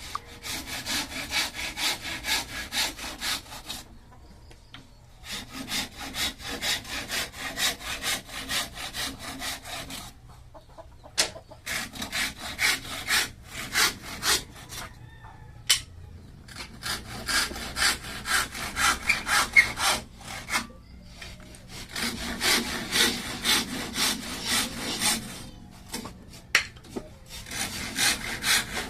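Hand saw cutting bamboo with quick back-and-forth strokes, about three or four a second, in several bouts separated by short pauses.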